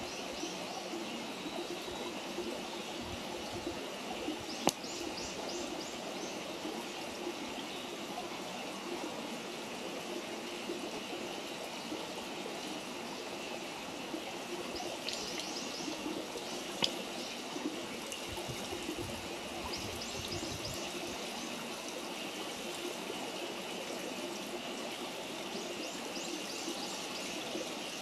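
Wood campfire burning over a steady rushing hiss, with two sharp pops, about five seconds in and again near the middle. A bird gives short trills several times.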